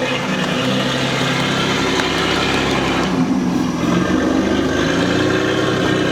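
A steady engine-like drone, as of a motor idling, with its pitch shifting slightly about three seconds in.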